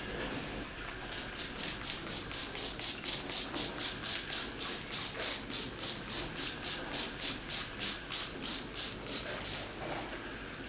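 Brisk back-and-forth scrubbing, about three to four strokes a second, starting about a second in and stopping near the end.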